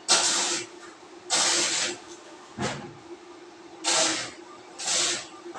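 Four short bursts of hissing spray, each about half a second long, with a brief click between the second and third. A steady hum runs underneath.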